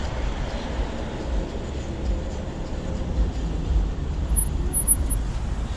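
Wind buffeting the microphone in low, gusting rumbles over steady road noise, from riding an electric bicycle uphill.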